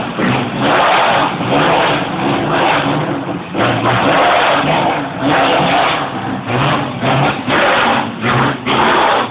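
A Turismo Carretera race car's engine, with its front bodywork tilted open, revved over and over in short blips. The loudness rises and falls about once a second throughout.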